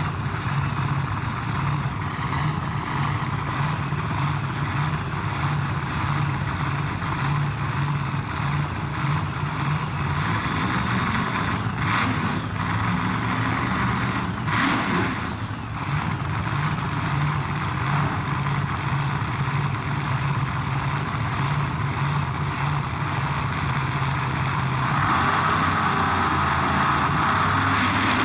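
Drag race car engines idling with a steady rumble while staging for the start. Two brief noisy bursts come about halfway through, and a few seconds before the end the sound gets louder as a higher drone joins in.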